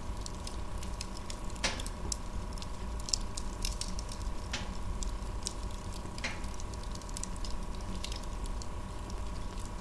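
Wood fire in a fireplace crackling, with scattered pops, the sharpest about two, four and a half and six seconds in, over a steady low rumble.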